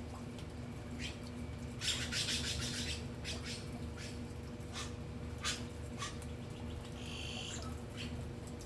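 Birds chirping, with short sharp calls scattered throughout, a dense burst of chatter about two seconds in and a buzzy call near the end, over a steady low hum.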